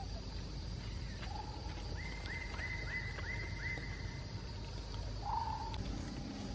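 Wild bird calling a quick run of about five short, arching high notes, over a steady low outdoor rumble. Two shorter, lower calls come about a second in and near the end.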